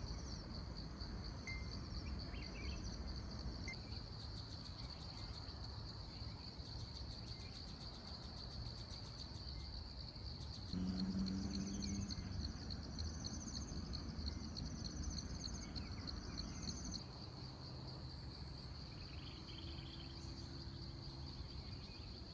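Insects trilling steadily at one high pitch in a fast, even pulse, over a low rumble of wind. A low hum joins about halfway through for several seconds, along with a few faint high chirps.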